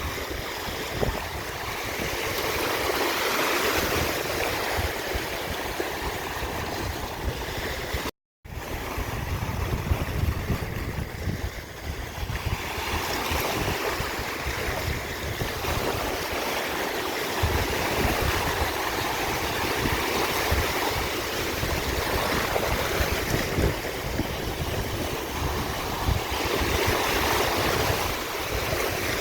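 Ocean waves breaking and washing on the shore, a steady surf that swells and eases. The sound cuts out completely for a fraction of a second about eight seconds in, then resumes.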